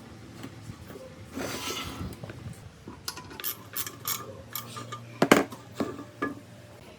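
Small hard parts handled on a workbench: a short scraping swish, then a run of light metallic clinks and knocks, the loudest about five seconds in.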